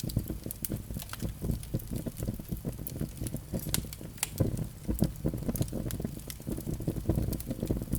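Wood fire in a fireplace crackling, with frequent irregular sharp pops, some louder than others, over a low steady rumble.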